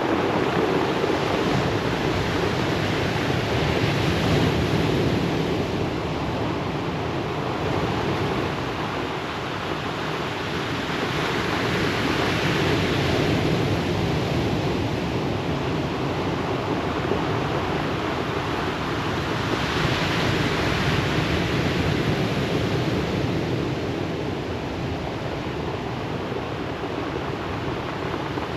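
Ocean waves breaking and washing over a pebble beach: a continuous surf hiss that swells in surges about every eight seconds.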